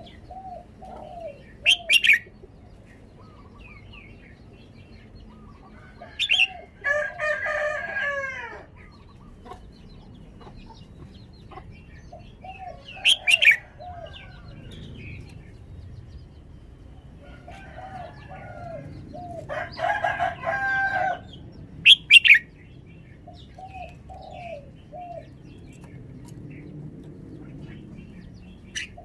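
Red-whiskered bulbul giving short, loud, sharp calls every few seconds. Between them a rooster crows twice, a long drawn-out call each time. Soft low notes repeat in small groups in between.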